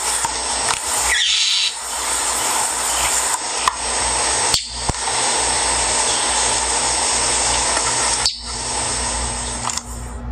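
Loud steady hiss with bird calls over it; the hiss breaks off sharply twice, about halfway through and near the end.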